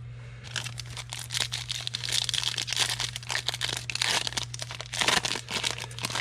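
Foil trading-card pack being torn open and its wrapper crinkled, a dense run of quick rustles and crackles. A steady low electrical hum runs underneath.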